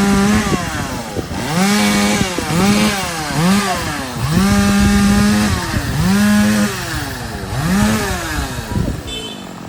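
Two-stroke chainsaw revved about seven times in a row, the pitch climbing sharply to full throttle and dropping back each time, with one longer hold at full speed midway. It falls away near the end.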